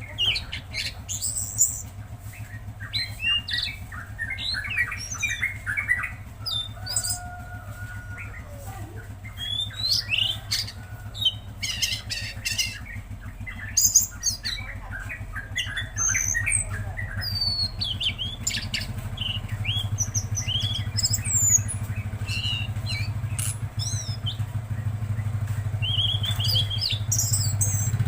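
A tledekan laut bird singing in rapid, varied chirps, trills and short whistles, in the lively "gacor" song used to tutor other songbirds. A steady low hum runs underneath and grows louder near the end.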